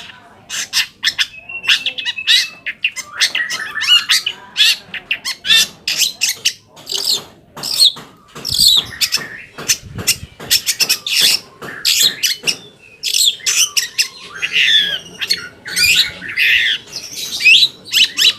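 Long-tailed shrike singing a fast, unbroken string of sharp, scratchy chattering notes. Near the end the song turns to quick swooping whistled notes.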